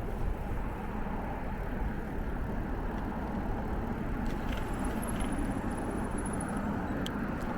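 Bicycle ride noise: a steady low rumble of wind on the microphone and tyres rolling, with a faint thin high whistle for about two seconds in the middle.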